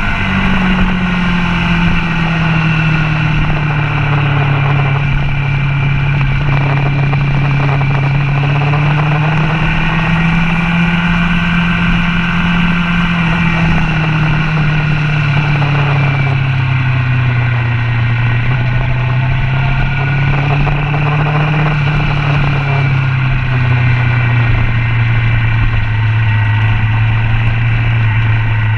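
Motorcycle engine heard from a camera mounted on the bike, running steadily at low revs with wind noise. The engine note eases down early on, then rises and falls gently without any hard acceleration.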